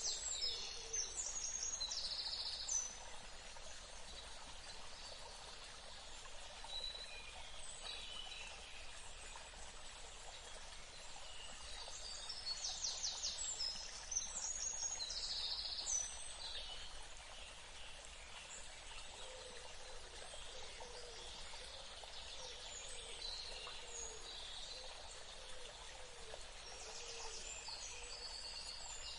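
Birds singing and calling in bursts of high chirps and trills, near the start, again around the middle and near the end, over a steady background hiss.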